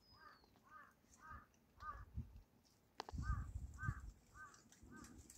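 A bird calling over and over, a series of short arched notes about two a second, with a one-second break about two seconds in. Low knocks and rumbling join from about three seconds in.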